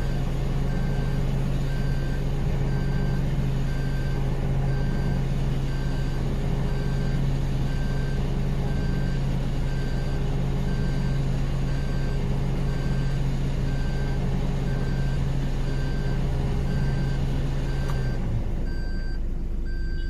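Electric vehicle winch motor running steadily under load as it pulls a stuck vehicle, a continuous hum that cuts off about 18 seconds in. A regular high beeping repeats about once a second throughout.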